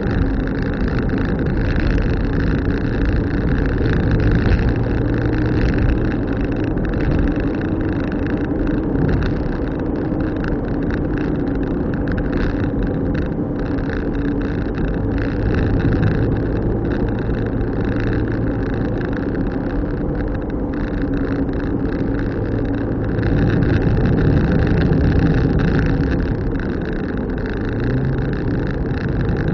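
Car driving along: steady engine hum with road and tyre noise, the engine note shifting slightly in pitch near the end.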